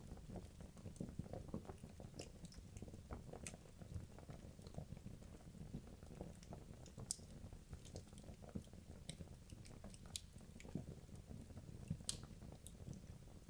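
Wood logs burning in a fireplace: a low steady rumble of flame with frequent small crackles throughout, and a couple of sharper pops, one about halfway through and one near the end.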